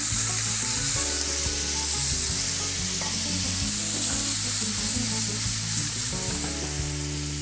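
Diced fresh tomatoes sizzling in a hot frying pan on top of seared chicken pieces: a steady frying hiss.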